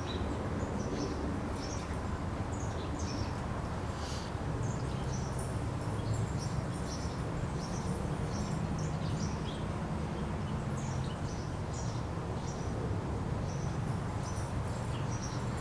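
Small birds chirping and calling in short, repeated notes, over a steady low background drone.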